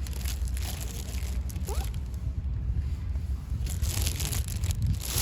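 A cat chewing food, with irregular crunching sounds over a steady low rumble of wind on the microphone.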